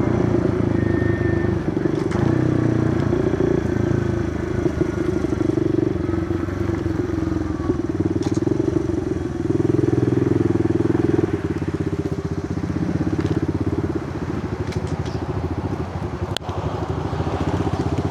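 Kawasaki KLX110 pit bike's small single-cylinder four-stroke engine running under way, the revs rising and falling with the throttle.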